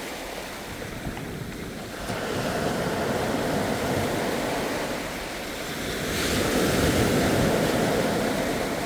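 Ocean waves washing in, a continuous rushing surf that swells twice, the second and louder surge starting about six seconds in.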